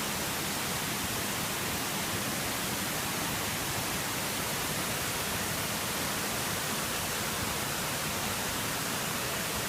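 Steady, even rush of a waterfall, unchanging throughout.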